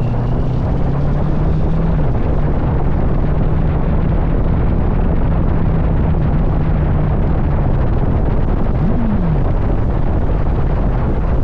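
Wind buffeting the microphone of a motorcycle at highway speed, over the engine's steady drone; the engine note briefly rises and falls about nine seconds in.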